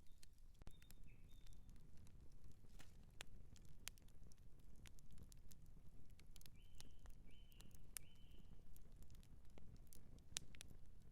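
Outdoor campfire crackling, with irregular sharp pops and snaps over a low steady rumble of burning wood. Three short high tones sound in a row about two-thirds of the way through.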